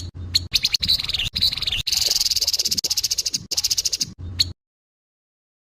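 Grey-headed babbler giving harsh calls: fast rattling runs of repeated high notes with short breaks between them, cutting off abruptly about four and a half seconds in.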